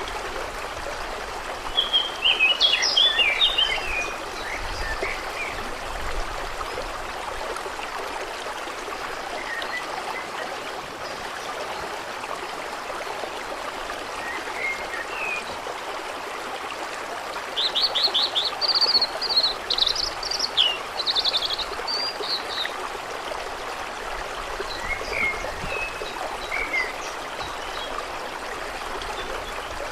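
Steady rush of moving water at a lake, with songbirds singing: a busy burst of song about two seconds in, a longer run of trills and whistles from about eighteen seconds, and scattered single chirps between.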